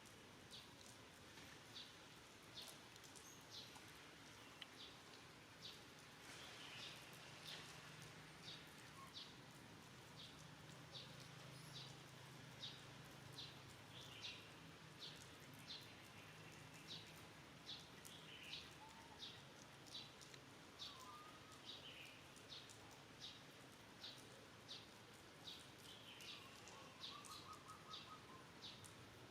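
Faint outdoor ambience with a short, high chirp repeating about one and a half times a second, and a faint low hum in the middle stretch.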